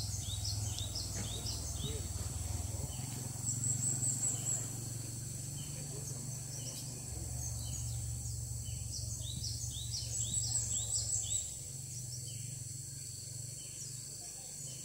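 Quick runs of short, high chirping bird calls, the tit-like calls used in trapping gelatik batu, repeated throughout. Two louder trills come about four and ten seconds in, over a steady high insect drone and a low rumble.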